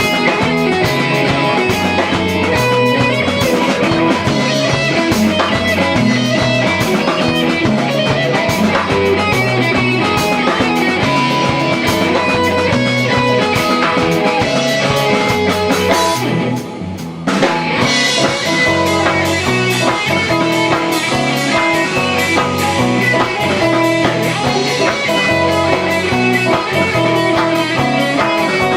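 Rock band playing live, with guitars and a drum kit, breaking off for under a second about sixteen and a half seconds in before coming straight back in.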